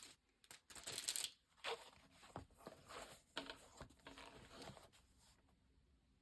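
Faint rustling and crinkling in short bursts as packaging around a leather notebook cover is opened and handled, dying away about five seconds in.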